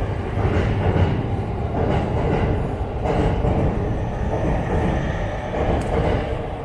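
A train running past with a steady, loud rumble.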